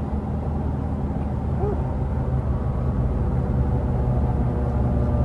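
Infiniti G37's V6 engine and loud aftermarket exhaust droning at a steady cruise while driving, heard from the driver's seat, getting slightly louder near the end.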